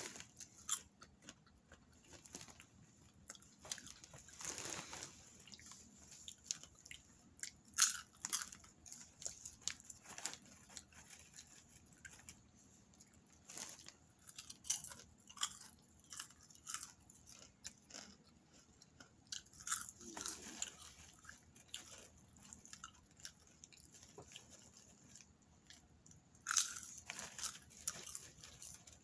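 Popcorn being chewed close to the microphone: many short, crisp crunches as mouthfuls are bitten and chewed. A couple of longer rustles of the plastic popcorn bag come about five seconds in and near the end.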